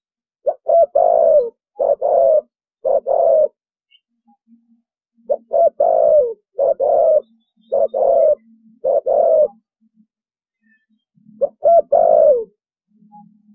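Spotted dove cooing: three phrases of low, repeated coos, the last one short, separated by pauses of about two seconds.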